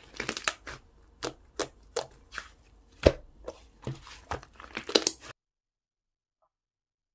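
Slime being squeezed and poked by hand, giving a string of sharp pops and crackles as trapped air bursts, the loudest about three seconds in. The sound cuts off abruptly a little after five seconds.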